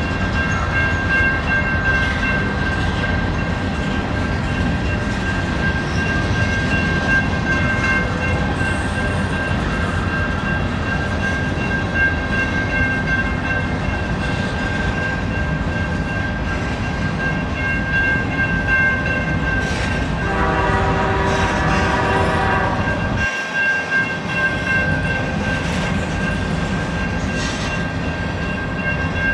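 Freight train running past, a continuous heavy rumble with a steady high tone over it. A train horn sounds for about three seconds, some twenty seconds in.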